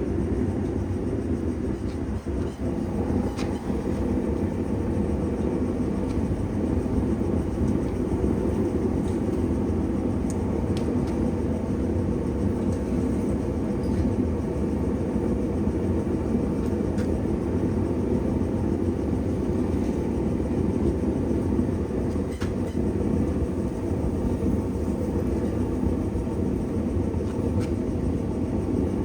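Steady, loud, low-pitched running noise of shop machinery with no pauses, and a few faint ticks over it.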